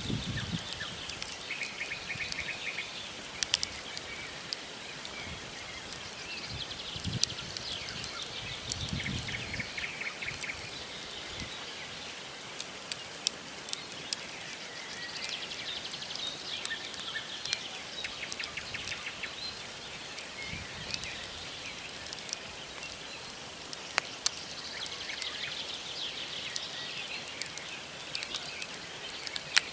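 Wood fire crackling, with irregular sharp pops and snaps from the burning logs, while small birds call in short repeated trills several times.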